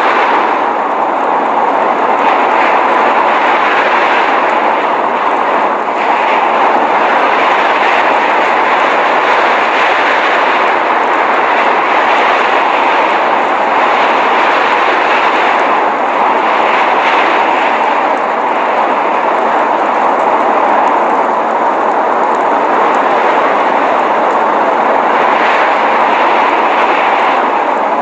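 Steady, even rushing roar of a snowstorm (blizzard wind and falling snow), with no distinct events, only slight swells in level.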